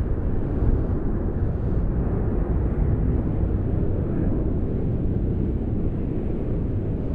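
Winter wind blowing steadily, a constant low-pitched noise with no gusts or breaks.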